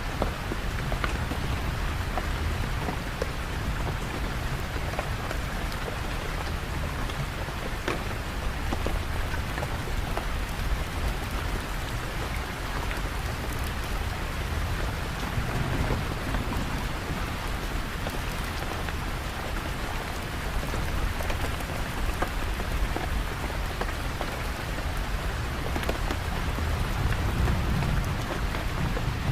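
Steady rain falling, with many individual drops pattering close by over a dense hiss of rain, and a low rumble underneath that swells slightly near the end.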